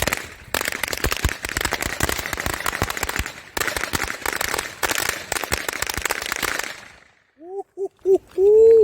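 A pack of old Blockbuster firecrackers going off in a rapid, dense string of pops for about six seconds, with a brief lull partway through, stopping about seven seconds in.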